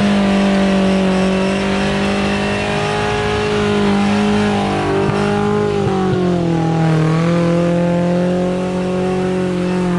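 Off-road vehicle's engine running steadily under load, its pitch dipping about six seconds in and settling a little lower.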